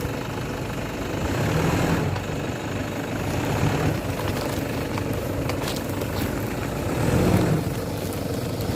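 Car engine running, its pitch swelling and falling a few times as it revs.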